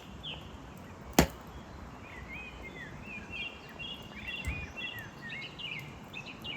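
Small birds singing short chirps and warbled phrases from about two seconds in, over steady low outdoor noise. About a second in comes one sharp, loud pop from the wood fire.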